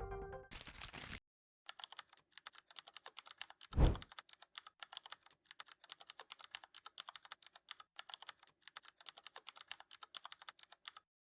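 Typing on a keyboard: rapid, irregular key clicks that keep going for about nine seconds, with one low thud about four seconds in. The typing follows a brief burst of hiss.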